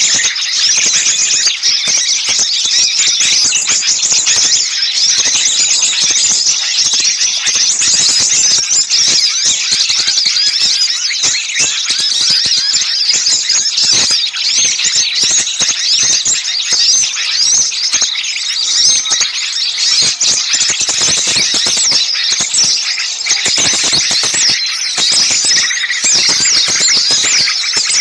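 Dense, unbroken chorus of many small songbirds chirping and trilling in agitation, high-pitched and noisy: a bird-lure recording of small birds raising a commotion.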